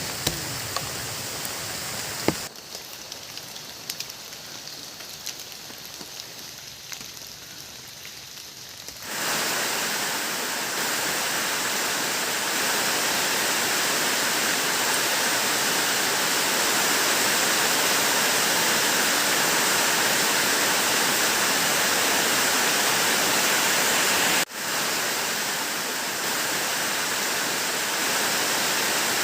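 Heavy rain falling as a steady hiss. A quieter stretch with scattered drip-like clicks runs for several seconds, then about nine seconds in it turns loud and even, with a brief break near the end.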